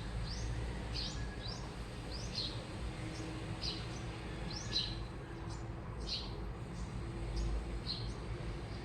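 Washing machine running with a steady low rumble and a faint hum, over which short high chirps repeat about twice a second.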